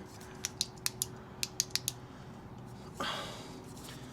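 A quick run of about nine light, sharp clicks over a second and a half, then a short scraping rustle about three seconds in.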